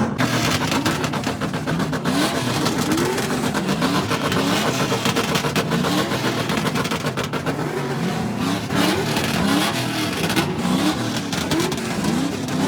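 Car engines revving over and over, each rev a short rising sweep in pitch, over a steady, dense engine rumble.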